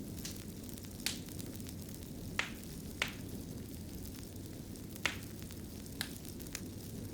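Wood fire burning in a fireplace: a steady low rush of flames with irregular sharp crackles and pops, about seven in these seconds.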